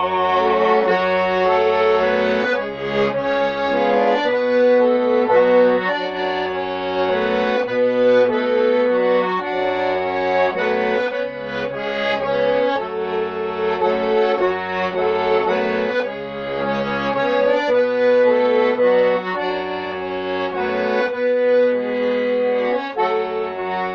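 Accordion-like instrumental passage: a melody over sustained chords, with bass notes changing every second or two.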